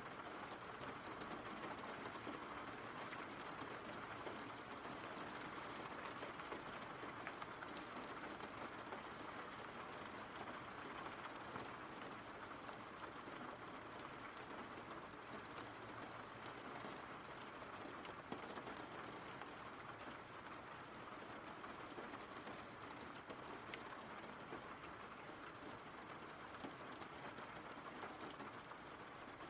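Steady rain falling: a soft, even hiss with scattered drop ticks, slowly getting quieter.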